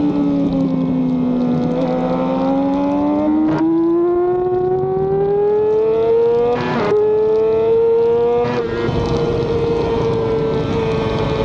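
Race motorcycle engine heard onboard, pulling hard out of a slow section. Its pitch climbs steadily, with a short break at each of three upshifts, then holds at high speed with wind rush underneath.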